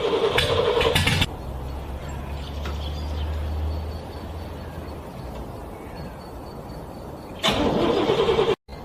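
A car's starter cranking a cold engine for about a second, then stopping. It cranks again for about a second near the end and cuts off abruptly.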